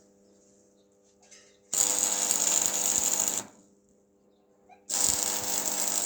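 A power tool run in two short bursts of about a second and a half each, with a pause of about a second and a half between them.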